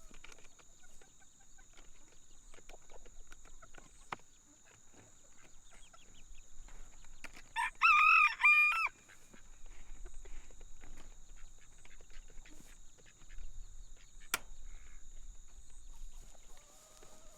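A rooster crowing once about eight seconds in, a loud call of just over a second. Around it are quieter clucks from the flock and a single sharp click later on.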